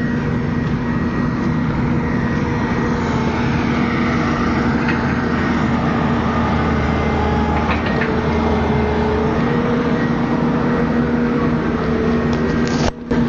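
Excavator diesel engine running steadily under load, with a constant hum.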